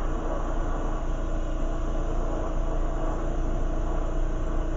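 Lampworking torch flame burning steadily, a constant rushing noise while glass is melted onto the rod.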